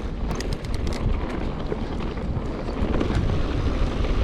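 A mountain bike rolling fast down a rough dirt trail, with wind buffeting the camera microphone, a steady low rumble, and a quick run of clicks and rattles about half a second in.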